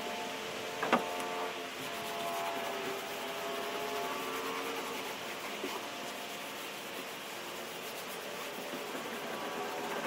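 Steady rubbing on the fiberglass of a boat transom during surface prep, over a steady hum of drifting tones, with one sharp click about a second in.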